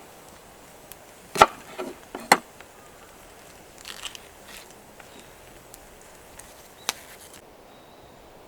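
Sharp wooden knocks like chopping: two loud strikes about a second and a half apart early on, a few softer knocks after them, and one more near the end.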